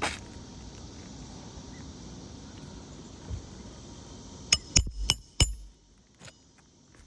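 Four quick, sharp metallic clinks past the middle, from a hand tool striking metal while roofing nails are worked on an asphalt-shingle repair, over a steady background hiss.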